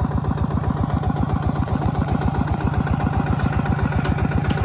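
Farm machine's engine running steadily with an even, rapid putter of firing strokes, a couple of light clicks over it near the end.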